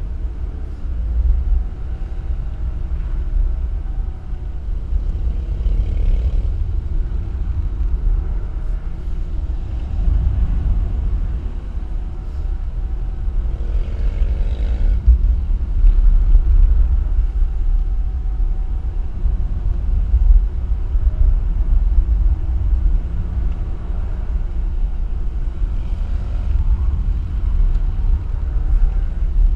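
Vehicle on the move: a steady, loud low rumble of engine and road noise, with fainter engine notes that rise and fall now and then.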